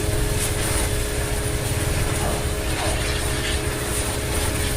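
Suzuki pressure washer running steadily, its motor and pump humming, with the hiss of the high-pressure water jet spraying.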